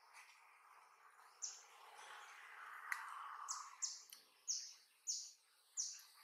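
A bird calling a series of short, high chirps, each falling in pitch, about six in a row from about a second and a half in. A soft rustle and a single click come around the middle.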